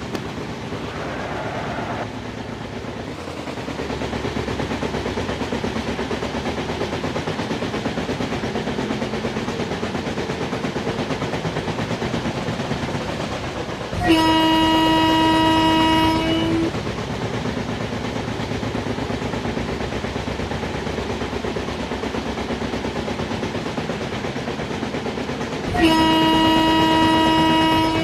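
Electric locomotive horn of an Indian Railways WAP-7 train, sounded twice as long single-pitch blasts about 12 seconds apart, over the steady noise of the train running.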